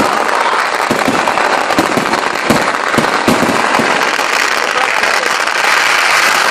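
Festival fireworks: a dense, continuous barrage of low-intensity firecrackers going off in rapid succession, a steady crackle with many separate louder bangs scattered through it.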